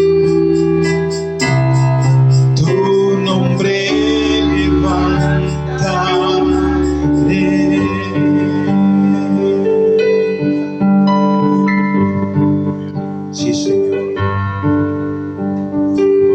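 Electric keyboard playing slow worship music in sustained chords over a held low bass, the chords changing every second or two.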